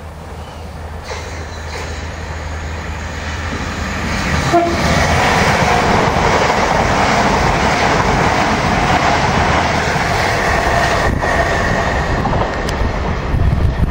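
Southeastern Class 395 high-speed electric train passing close by at speed. Its rush of wheels on rail builds over the first few seconds, then holds loud and steady with a faint whine. A short horn note sounds about four and a half seconds in, as it draws level.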